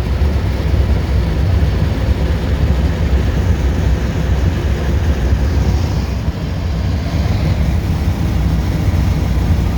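Fuel-injected 1988 Ford 460 big-block V8 pulling a truck steadily at highway speed, a continuous low rumble mixed with road noise, with a brief slight dip about six seconds in.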